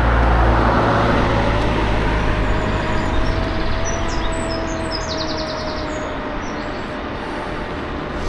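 Riding noise of a KuKirin G2 electric scooter: steady wind and road noise with a thin whine that rises slightly over the first few seconds and then holds. A low rumble fades out in the first second, and a bird chirps several times around the middle.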